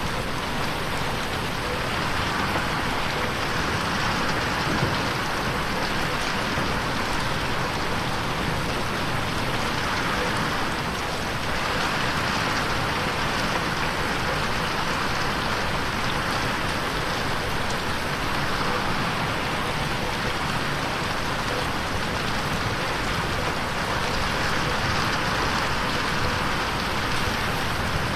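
Steady rain pattering on a window pane, an even hiss of drops with slow swells in intensity.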